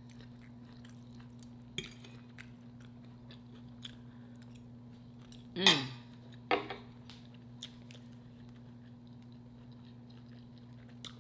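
Soft chewing of a shrimp, sausage and cabbage stir fry, with scattered small clicks of a metal fork against a glass dish. A brief hummed voice sound comes about halfway through, over a low steady hum.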